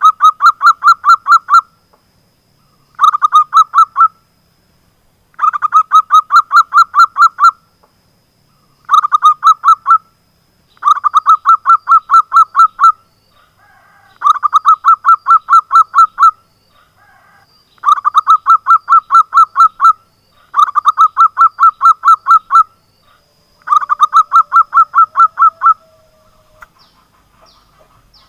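Zebra dove (perkutut) cooing in repeated phrases of rapid, clipped notes: about nine phrases, each a second or two long, with short pauses between them.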